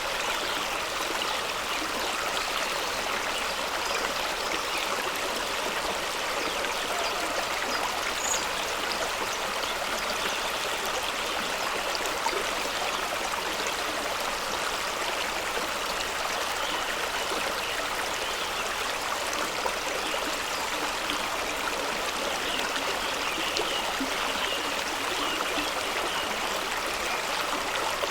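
Fast-running stream rushing over rocks, a steady, even rush of water.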